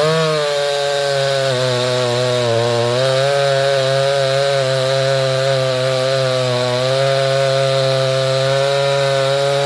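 Craftsman 3.7 two-stroke chainsaw with a 20-inch bar at full throttle, cutting through wood. The engine holds a steady, loaded pitch through the cut.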